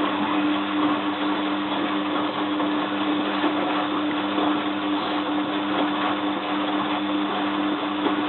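Bosch WFF2000 washing machine's motor turning the drum at a steady wash speed, a constant motor hum over the swish of the wet load; the run starts just before and stops just after this stretch.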